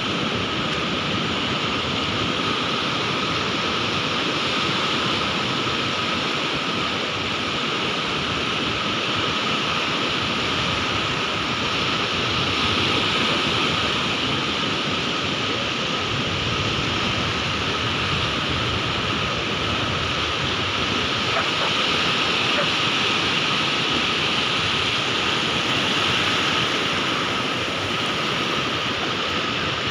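Sea surf washing in a continuous rush, swelling gently in loudness every few seconds rather than breaking in distinct crashes. A faint steady high tone runs underneath.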